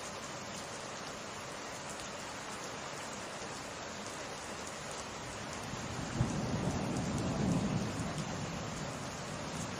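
Steady summer rain hissing, with a low rumble of thunder about six seconds in that opens with a sharp crack, swells and fades away over about three seconds.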